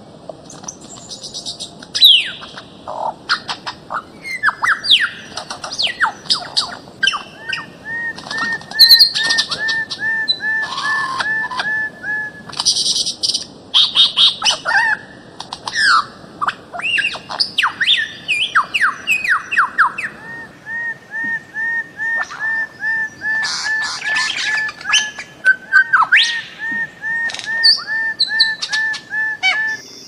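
Several birds calling in forest, one dense stream of song. Quick downward-sweeping whistles and sharp chirps run throughout. Over them a run of short, evenly spaced notes repeats about three times a second, first about eight seconds in for a few seconds, then again from about twenty seconds in to the end.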